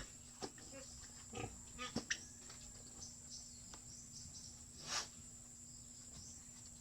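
Pigs grunting now and then in short, scattered sounds, mixed with a few light knocks. The loudest is a noisy breathy burst about five seconds in.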